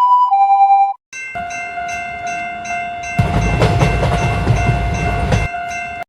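A two-note electronic chime, then a train horn sounding one steady chord for about five seconds. From about three seconds in, a train rumbles past with a clickety-clack of wheels over rail joints, stopping shortly before the horn cuts off.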